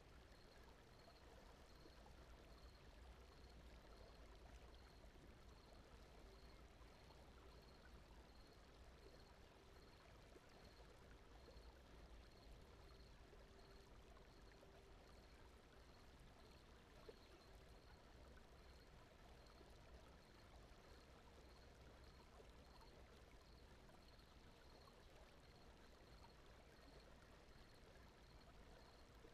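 Very faint, steady brown noise: an even, deep rush with no breaks. A faint high pulsing tone repeats about one and a half times a second over it.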